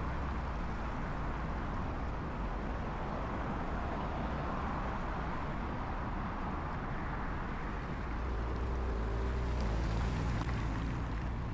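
Steady urban background noise with a low rumble, typical of nearby traffic. About eight seconds in, a low engine hum grows a little louder.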